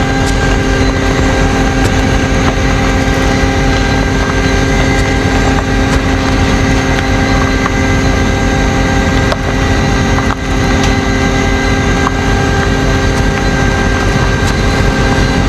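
Tow truck's engine running steadily with a constant hum and whine, dipping briefly twice about ten seconds in.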